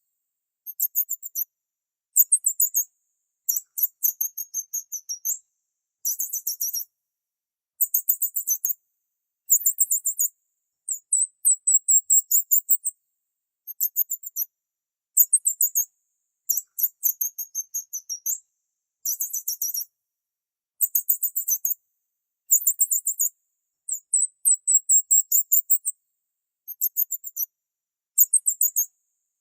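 Small birds chirping in very high-pitched, rapid trills. The phrases last about a second each and come one after another with short silent gaps between them.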